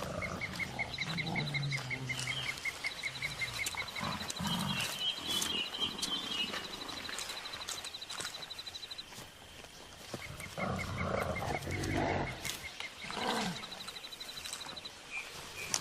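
Mountain gorillas giving low grunting calls in a few separate bouts, over rapid, evenly pulsed high trills from the rainforest background.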